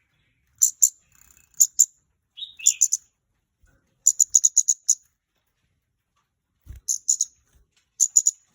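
Scarlet-backed flowerpecker calling: groups of sharp, very high ticking notes, mostly in twos and threes, with one quick run of about seven notes around four seconds in, and a short lower buzzy note near three seconds in.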